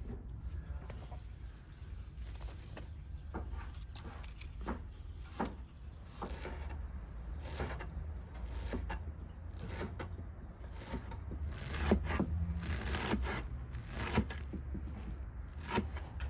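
Irregular scraping and rubbing strokes, some louder near the end, over a low steady rumble.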